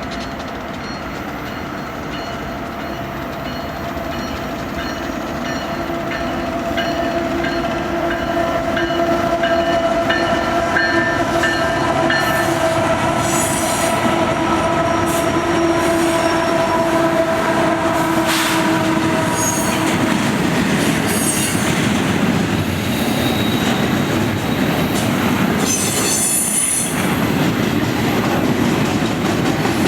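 Intermodal freight train led by a Union Pacific diesel locomotive rolling past: a steady high wheel squeal for about the first twenty seconds, then the rumble and clatter of the cars going by.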